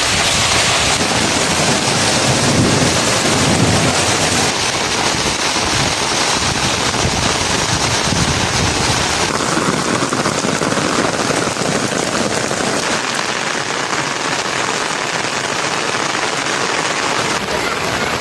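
Steady rain falling and spattering on surfaces, a dense even hiss whose character shifts abruptly several times.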